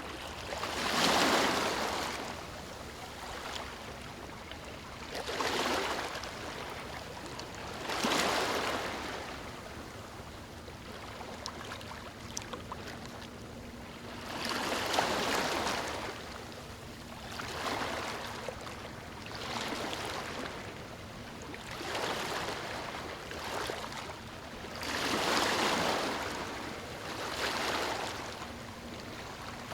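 Small waves lapping on a beach, each one washing in with a soft rush and draining away, about ten times, every two to four seconds.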